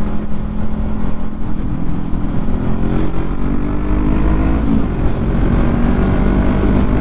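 Motorcycle engine running while riding in traffic. Its pitch climbs a few seconds in, dips briefly just before the halfway point, then holds steady.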